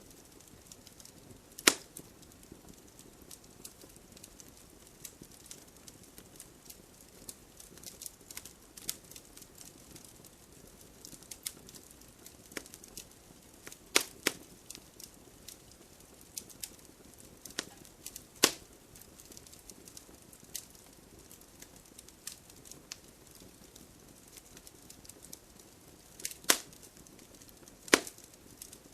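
Wood fire crackling: irregular small snaps over a low hiss, with a handful of loud sharp pops from the burning logs.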